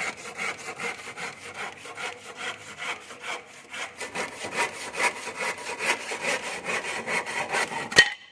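Hand saw cutting through wood in quick, even back-and-forth strokes, about four a second, ending with a sharp knock near the end before the sound cuts off.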